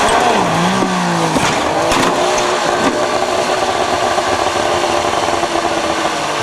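Rally car engine at high revs: the pitch dips and climbs back in the first second and a half, then holds steady as the car drives flat out, with a sharp crack about two seconds in.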